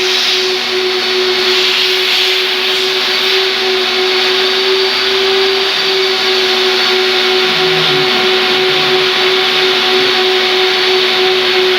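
Three-motor, 4,200 W twin-turbine industrial vacuum cleaner running steadily: a loud, even rush of air with a constant motor whine.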